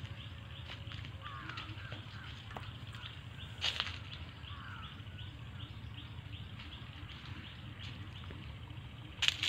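Birds chirping in an orchard: a short high call repeated about twice a second, with a few falling calls, over a low steady rumble. Two sharp clicks, about four seconds in and near the end.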